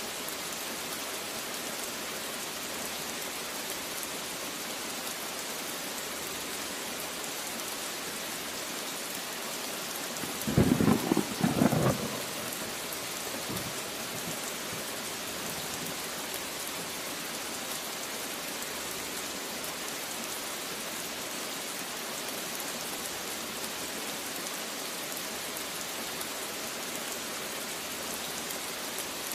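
Steady rain falling, with one short, loud clap of thunder about ten seconds in that lasts a second or two.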